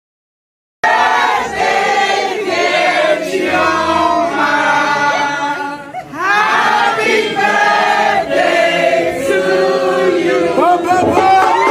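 A group of people singing together, several voices at once, starting abruptly about a second in after a moment of dead silence.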